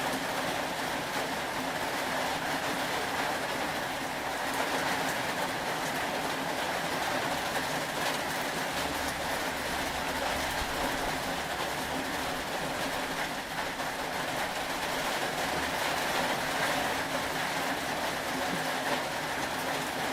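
Steady rain, an even hiss, with a faint low rumble for a couple of seconds in the middle.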